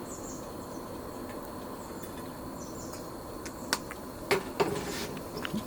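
Background ambience with insects chirping: a faint steady high tone and a few short high chirps. Several light clicks or knocks come in the second half.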